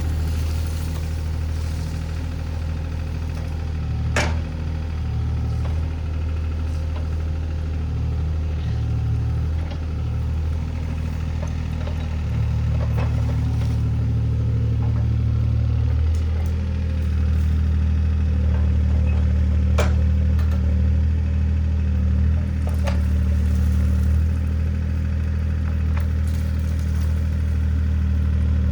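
Mini excavator's diesel engine running steadily, its note stepping up and down as the hydraulics take load. A few sharp knocks stand out, about four times.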